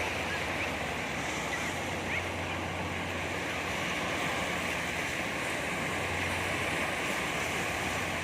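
Sea waves breaking and washing on a beach, a steady rush of surf.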